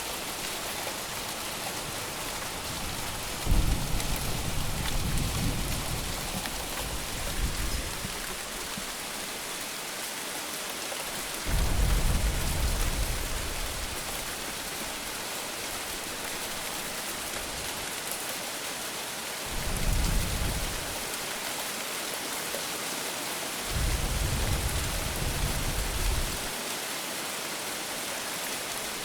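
Steady rain hissing, with four low thunder rumbles of a few seconds each, the first beginning with a sharp crack.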